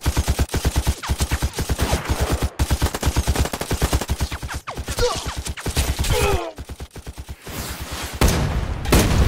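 Rapid automatic machine-gun fire, about eight to ten shots a second, with a man's yell partway through and a couple of heavier bangs near the end.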